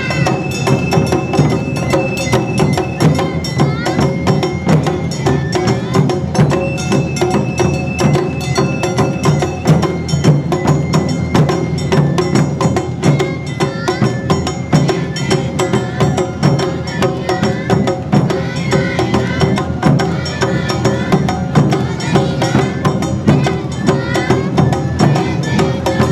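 Awa odori festival music: a hayashi band of drums and a clanging hand gong keeping the brisk two-beat rhythm, with a bamboo flute holding high notes over it.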